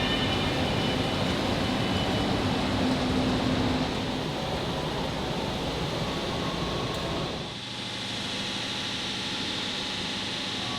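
Factory machinery running steadily with a constant hum, its low rumble dropping away about seven and a half seconds in.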